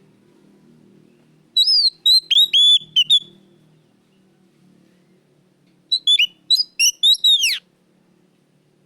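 Oriental magpie-robin (kacer) singing loud, clear whistled notes in two short phrases. The second phrase ends in a long falling whistle.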